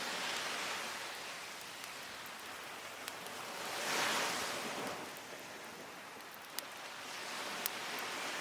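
Sea waves washing onto a beach in slow swells, the loudest about four seconds in, with a few sharp crackles from a wood fire burning close by.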